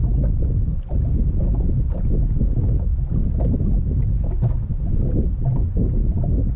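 Wind buffeting the microphone on an open fishing boat, a loud, unsteady low rumble.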